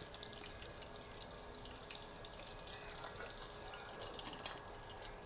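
Chicken pieces frying in hot oil: a steady sizzle with many small crackling pops.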